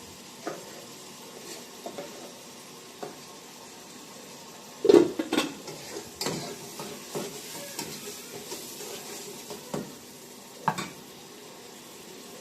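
A series of irregular clicks and knocks over a low steady background, loudest in a short clattering burst about five seconds in.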